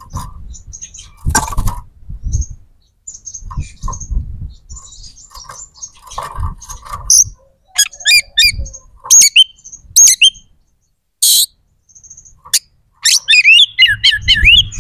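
Oriental magpie-robin in full song: a varied run of chirps, sharp whistles and rapid sweeping trills, soft and scattered at first and getting loud from about halfway on.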